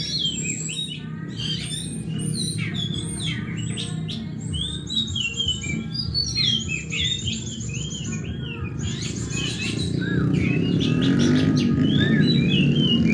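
Several oriental magpie-robins (kacer) singing at once in competition, a dense overlap of varied whistled phrases, louder from about ten seconds in, over a steady low background murmur.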